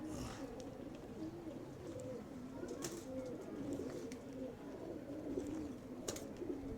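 Domestic pigeons cooing, a continuous run of overlapping low, wavering coos, with three sharp clicks spaced about three seconds apart.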